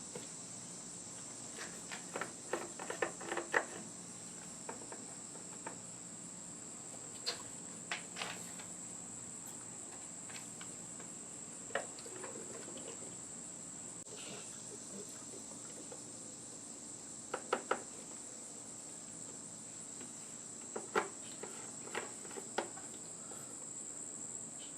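Crickets chirping steadily in the background, with scattered light clicks and knocks from handling the fuel bottle and tank while the RC truck is being fuelled with two-stroke mix.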